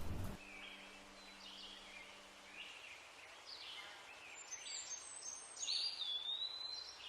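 Birds calling: scattered short chirps, and about six seconds in a longer whistled note that jumps up, then drops and holds.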